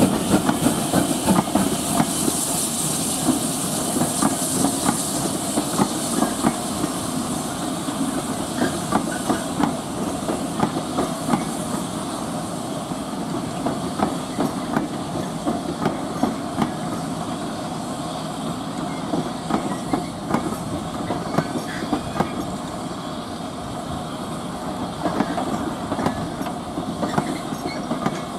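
A train of steam-hauled passenger coaches rolling slowly past, its wheels clicking and clacking over the rail joints. The departing steam locomotive's exhaust hiss is loudest in the first few seconds, then fades, while the wheel clicks go on and pick up again near the end.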